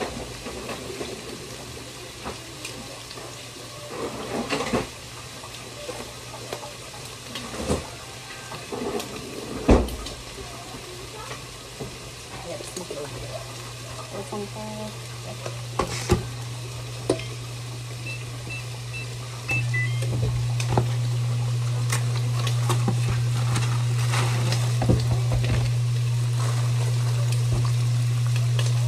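Shrimp frying in a pan, with scattered clicks and knocks of a utensil against the pan. A steady low hum runs underneath and gets louder twice, about halfway through and again about two-thirds of the way in.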